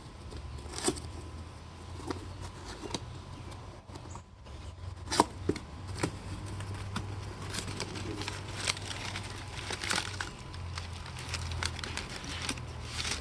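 Packaging being opened by hand, likely the box holding the alternator: scattered crinkling, rustling and small knocks, a couple of them sharper about five seconds in, over a steady low hum.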